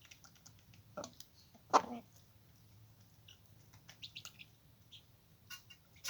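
Farmyard poultry calling: a short call about a second in, then a louder one just after, over scattered faint chirps and clicks.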